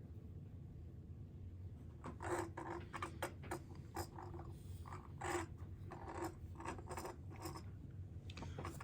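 Irregular short scrapes and clicks of small plastic and metal shaver parts being handled during disassembly, starting about two seconds in.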